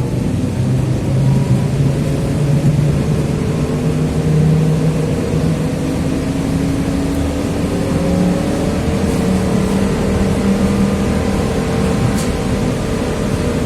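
TrolZa-5275.05 Optima trolleybus under way, heard from on board: the DK-213A traction motor and the Ishimbay rear axle's gears whine in several tones that slowly rise in pitch, over road rumble. A brief click sounds near the end.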